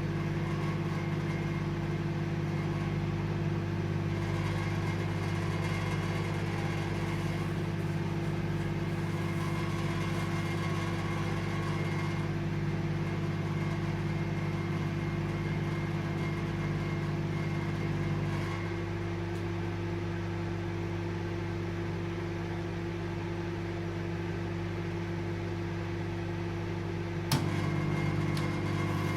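Microwave oven running with a steady hum. About two-thirds of the way through, part of the hum drops away and it runs slightly quieter; near the end a sharp click brings the fuller hum back.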